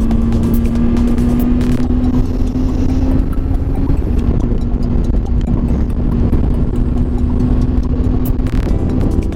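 Triumph Tiger 800 XRT's three-cylinder engine running at a steady cruise, its note rising slightly, dipping briefly about four seconds in, then holding steady, over steady road and wind noise.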